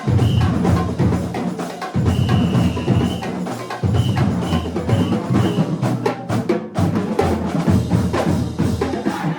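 Marching band drumline playing a cadence: rapid snare and stick or rim clicks over pitched bass drum notes, with short high tones over it.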